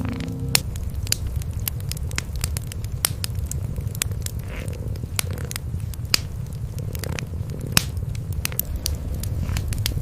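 Wood fire crackling with scattered sharp pops over the low, steady rumble of cats purring.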